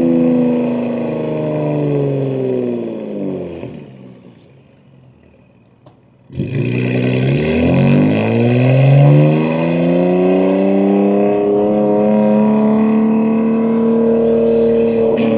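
BMW M2's S58 twin-turbo straight-six, running through catless downpipes, with revs falling away for about four seconds as it slows. The sound drops low for about two seconds, then comes back suddenly, and the revs climb smoothly and hold steady as the car pulls away in gear.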